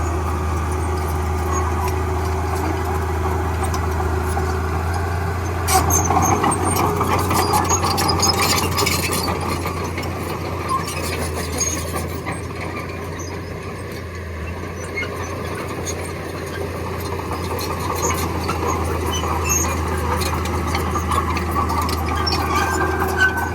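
Heavy diesel earthmoving machine, most likely a bulldozer, running steadily with a low engine drone. It gets louder about six seconds in for a few seconds, with metallic clanks and squeaks.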